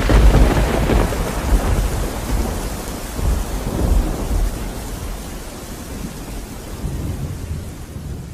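Thunderstorm: steady rain with rolling thunder. A heavy rumble comes right at the start and another about four seconds in, and the whole gradually fades toward the end.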